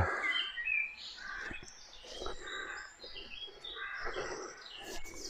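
Wild birds singing: many short chirps and brief whistled phrases, one after another.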